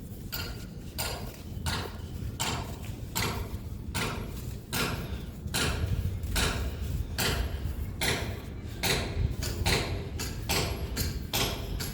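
Wind rumbling on the microphone, with a steady run of sharp clicks about two a second.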